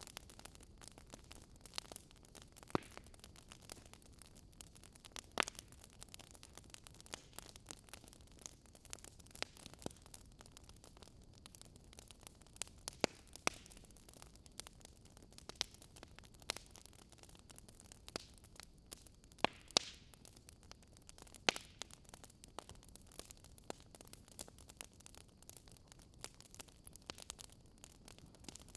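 Wood fire burning in a fireplace: a low steady hiss of the flames with irregular sharp crackles and pops, a few louder snaps scattered through.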